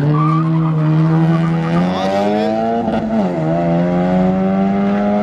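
A Honda Civic sedan's engine accelerating hard down a drag strip. Its pitch climbs steadily, drops once at an upshift about three seconds in, and climbs again.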